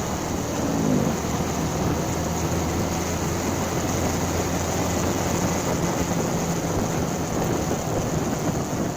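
Motorcycle engine running while riding, with wind rushing over the microphone. The engine note falls briefly about a second in, then holds steady.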